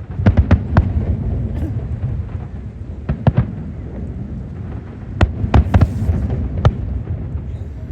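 Aerial fireworks shells bursting in quick clusters of sharp bangs, about a dozen in all in three groups, with a low rumble and echo between them.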